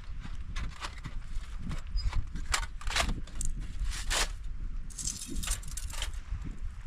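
Light clinks, knocks and rattles of camp stove gear being handled and set up, with a few louder clatters near the middle and a quick run of clicks about five seconds in, over a low steady rumble.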